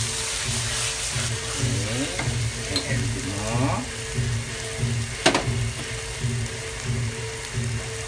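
Green chili spice paste sizzling in hot oil in a wok as it is stirred with a wooden spatula; the paste has been fried until the oil has risen to the surface. A sharp knock about five seconds in.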